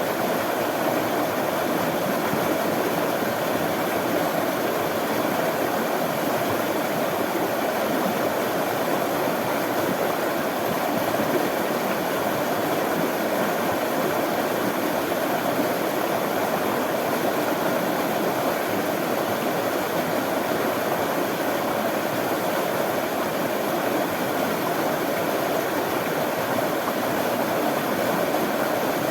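Running water rushing steadily, a continuous even noise with no breaks or changes.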